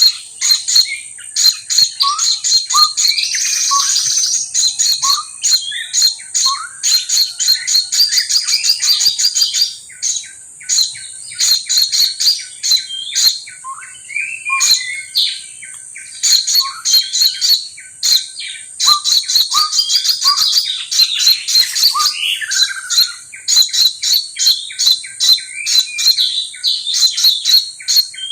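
Birds calling continuously: rapid trains of short, sharp chirps, mixed with short upward-slurred whistled notes, repeated over and over with only brief gaps.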